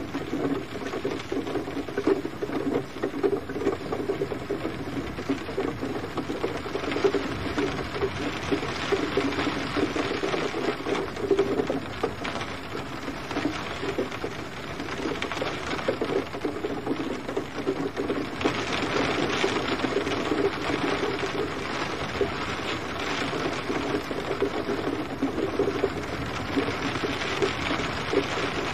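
Steady rain falling, a dense, even patter of drops. The higher hiss of the rain grows a little brighter about two-thirds of the way through.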